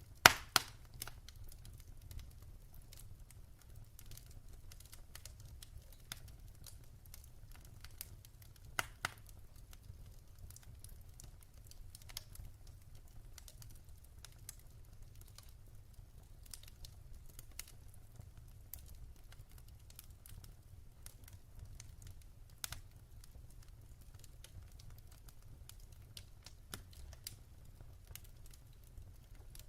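Fire in a fireplace crackling: scattered small clicks with a few louder pops, the loudest just after the start and around nine seconds in.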